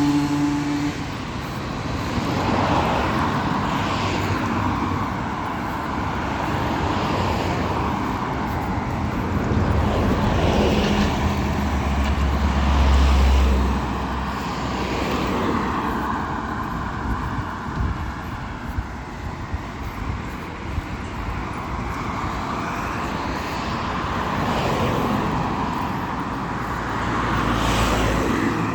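Road traffic: vehicles passing one after another, each rising and fading, with a deeper rumble from a heavier vehicle about halfway through.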